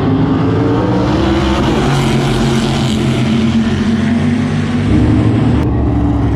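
Race cars' engines running hard on a track, loud and continuous, the engine note dipping and then climbing again.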